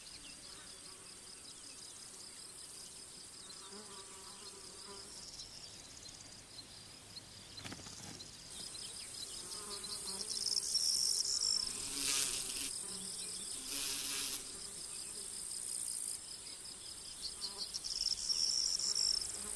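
Insect chorus: crickets trilling steadily in high, pulsing notes, with other insects buzzing. It grows louder about halfway through, with two brief louder rasps near the end.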